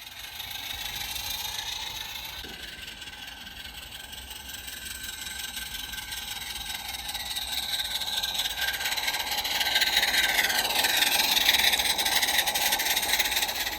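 Garden-scale model W.D. Baldwin locomotive hauling loaded stone wagons along the track: a running whine and rattle of wheels on rail, with gliding pitches, growing louder as the train comes close about ten seconds in and easing off near the end.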